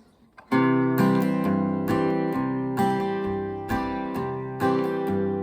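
Acoustic guitar strumming chords in a steady rhythm, starting about half a second in, as the instrumental intro of a country song.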